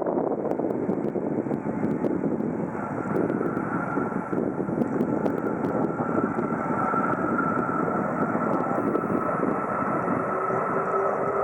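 Airbus A330 airliner's jet engines during landing: a steady rushing roar with a thin, steady whine that comes in about a quarter of the way through, and a lower hum joining near the end.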